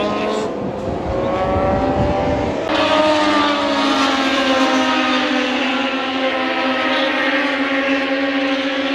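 MotoGP racing motorcycle engines running at high revs. About three seconds in, the sound grows louder and one engine note holds, its pitch slowly dropping.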